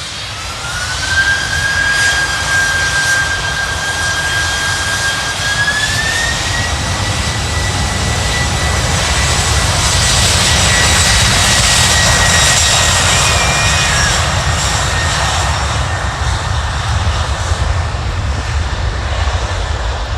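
Boeing 747 freighter's jet engines at takeoff power: a loud, steady rumble with a high whine that climbs in pitch, steps up again after a few seconds and then holds. The sound builds to its loudest around the middle and eases a little toward the end.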